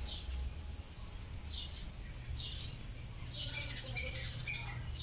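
Birds chirping: a series of short, high calls about once a second, with a few thin whistled notes in the second half.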